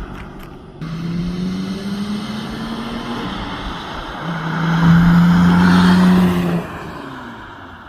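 Nissan Skyline GT-R with a Midori Seibi titanium muffler driving past under throttle, its exhaust note a steady drone. It is loudest about five to six seconds in, then fades as the car moves away.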